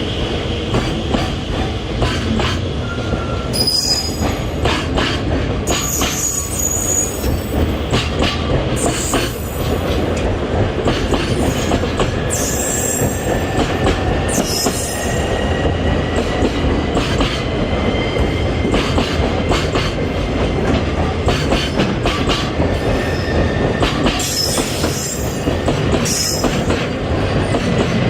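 A long freight train rolling steadily past, its wheels rumbling on the rails. Short, high wheel squeals break in every few seconds, with a thin whine drifting in pitch through the middle.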